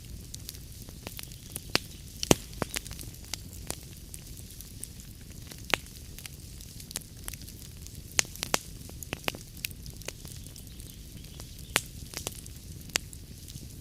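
Wood log fire crackling in a fireplace: irregular sharp pops and snaps over a steady low rumble and soft hiss of the flames, the loudest pop a little over two seconds in.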